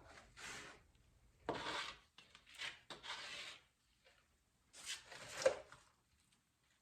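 Body-filler spreader scraping short-strand fiberglass filler across a car door panel: a handful of short scraping strokes, each under a second, with pauses between them.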